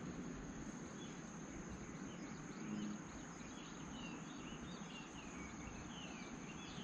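A steady, high-pitched insect trill, with faint short bird chirps over it.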